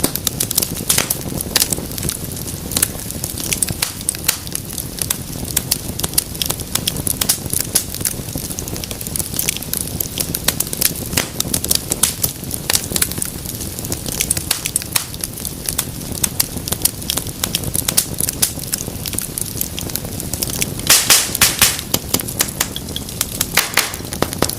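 Wood fire in a fireplace crackling steadily, with a soft rush of flame under frequent sharp pops and snaps. A quick run of louder pops comes a little before the end.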